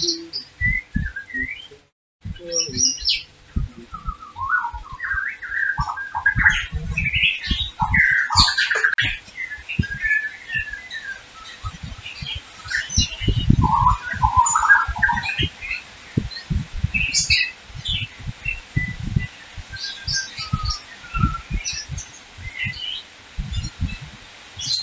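Birds chirping and twittering throughout, in many short calls, over irregular low thuds.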